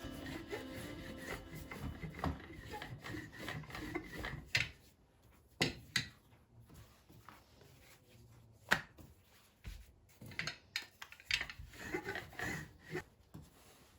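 Hand-work handling sounds: irregular rubbing or scraping with scattered sharp knocks, busier in the first few seconds and sparser after.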